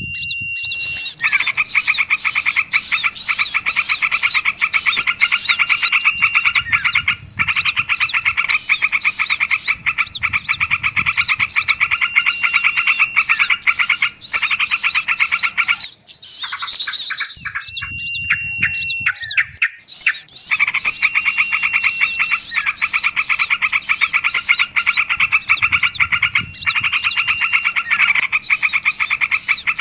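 Bird-lure recording of several small songbirds calling at once: a dense, fast chattering trill with rapid repeated high whistled notes over it, the agitated 'ribut' calls used to draw small birds in. The chorus breaks off briefly about halfway through, then resumes.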